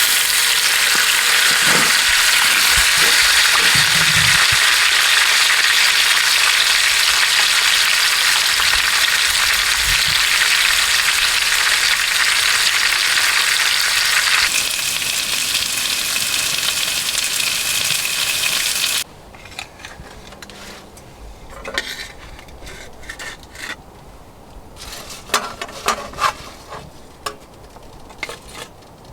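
Steak frying in a pan on a wood stove, a steady loud sizzle that drops a little about halfway and then cuts off suddenly, followed by quiet with a few light clicks and taps.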